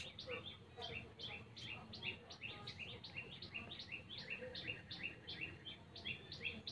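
Small birds chirping: a fast, steady series of short, high, downward-sliding chirps, several a second, heard faintly.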